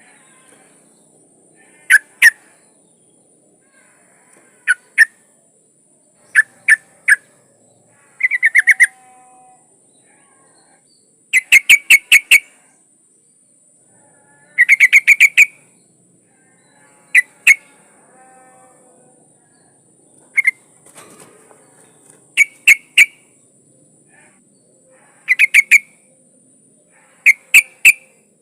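Yellow-vented bulbul (trucukan) calling, presented as a female calling for a male. The calls are short bursts of two to six quick notes, repeated every two to three seconds.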